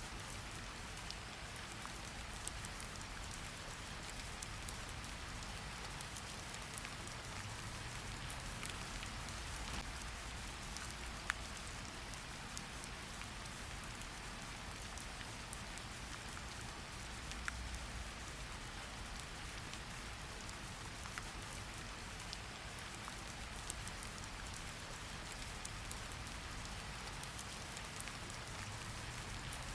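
Steady rain falling, a continuous hiss with individual drops ticking here and there and a low rumble underneath; one drop lands louder about eleven seconds in.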